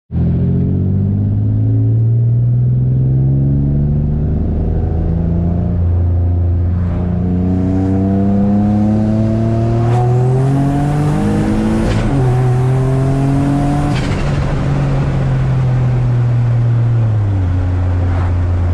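Single-turbo Nissan G35's VQ35 V6 accelerating through the gears, the revs climbing and then falling back at each upshift several times. Near the end the revs drop and it settles at a lower, steady pitch.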